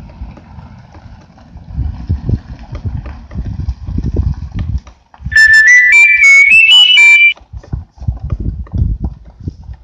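A short, very loud whistled run of about seven clear notes, stepping mostly upward, lasting about two seconds near the middle, over a low rumbling noise.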